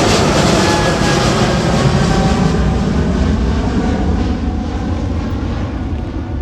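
Boeing 777-300ER's twin GE90 turbofan engines at takeoff power passing by, with whining tones that slide down in pitch as the jet moves away. The noise fades gradually over the last couple of seconds.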